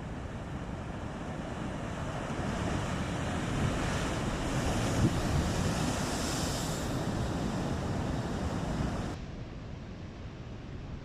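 Rough sea: waves surging and crashing with strong wind buffeting the microphone, swelling to a peak midway, then cutting off abruptly to a quieter sea sound about nine seconds in.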